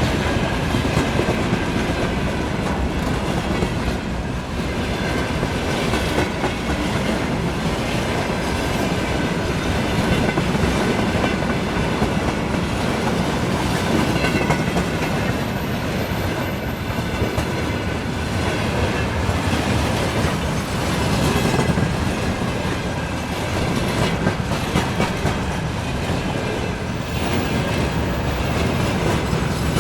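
A train passing steadily, its wheels clattering over the rail joints.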